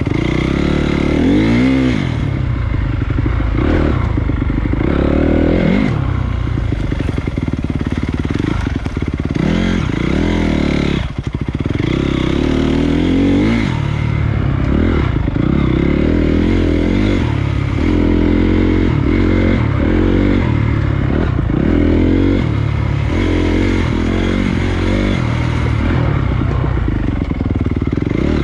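Honda CRF250 dirt bike's single-cylinder four-stroke engine under way on a trail, its pitch rising and falling over and over as the throttle is worked and gears change, with a short drop about eleven seconds in.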